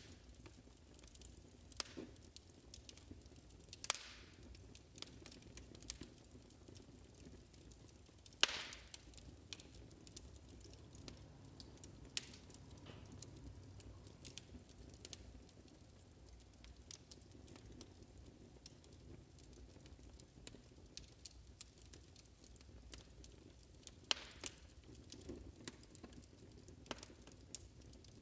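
Wood fire crackling faintly: irregular small snaps and pops over a low steady rumble, with a few sharper cracks standing out.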